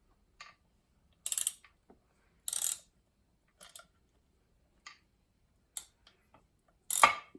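Ratchet wrench clicking in short bursts, about one a second, while the bolts on a mower engine's connecting rod cap are worked loose; the loudest clack comes near the end.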